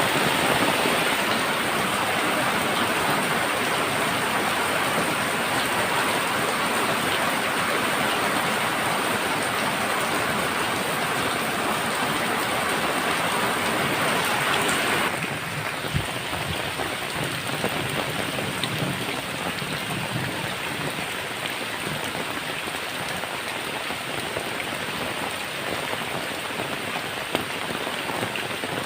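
Heavy rain pattering densely and steadily on a tin roof. About halfway through the sound suddenly becomes quieter and thinner, with a few single sharper drops standing out later.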